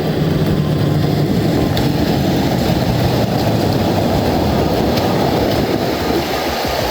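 Heavy truck engine running steadily under load, a continuous low, loud sound.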